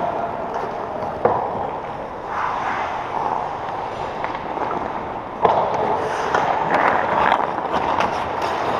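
Skates scraping on arena ice during play, with a sharp knock about a second in and a louder one about five and a half seconds in, followed by many quick clicks and scrapes.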